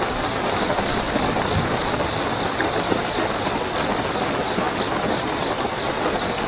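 Steady heavy rainfall, an even rushing hiss without pauses, with crickets trilling continuously at a high pitch over it.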